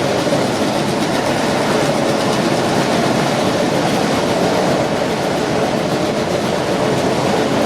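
G-scale model train running along the track: a steady, even noise of wheels on rail.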